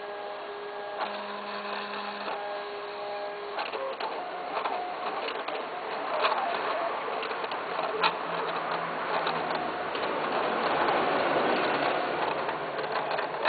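A small machine running, a busy mechanical rattle with scattered sharper clicks; for the first few seconds a few steady tones sound over it.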